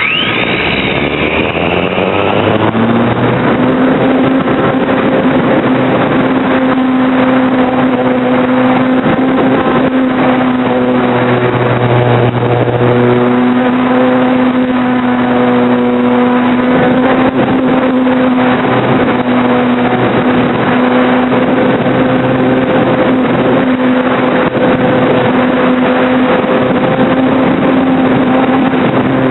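RC model Cessna's motor and propeller, heard from the onboard FPV camera: it spins up sharply right at the start, then runs at a steady pitch, with rushing wind noise underneath.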